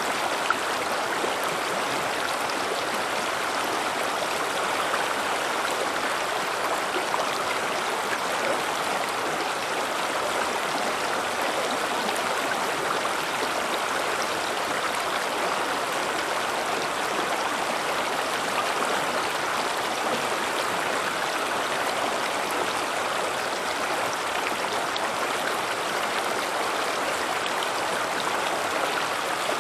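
River water running steadily over rocks: a constant rushing and babbling with small splashes scattered through it.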